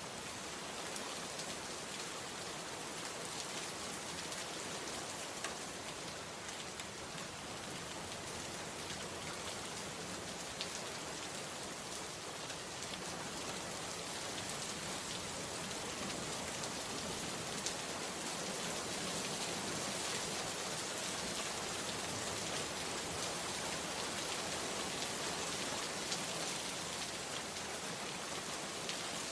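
Steady rain falling on a surface, an even hiss of many drops with a few individual drop ticks standing out.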